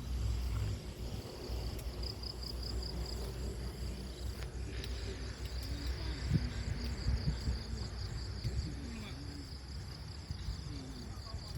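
Insects chirping in fast, steady trills over a low background rumble.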